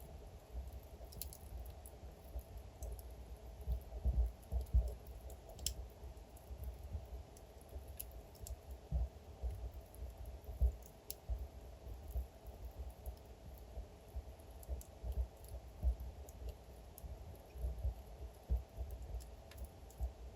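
Wood fire crackling: scattered sharp pops and snaps from burning logs over a low, steady rumble of the flames.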